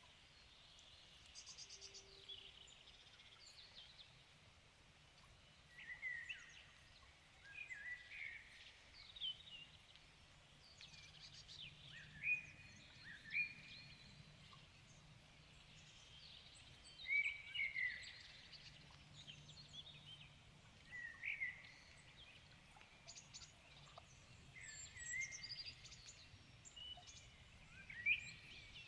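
Songbirds singing: short chirping phrases that sweep in pitch, coming every couple of seconds, over a faint steady background hiss.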